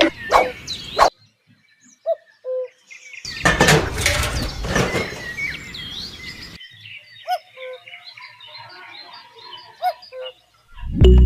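Birds chirping in short calls, with a loud stretch of hiss-like noise starting about three seconds in and lasting about three seconds.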